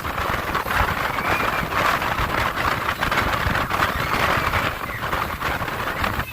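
Motorboat underway at speed: a steady rushing of water and wind over the engine's rumble.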